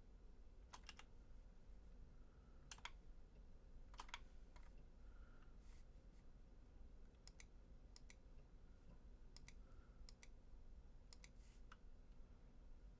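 Faint, scattered clicks of a computer mouse, many in quick pairs like double-clicks, over a low steady hum.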